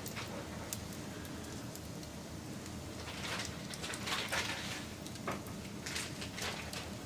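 Wood fire burning, with a steady hiss and irregular sharp crackles and pops of burning wood that thicken into a louder cluster about halfway through.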